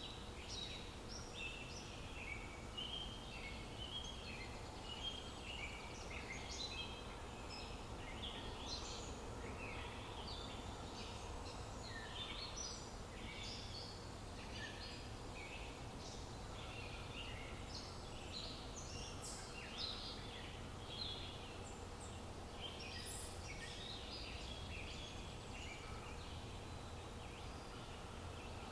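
Several small songbirds chirping and trilling continuously, many short overlapping calls, over a steady low background rumble.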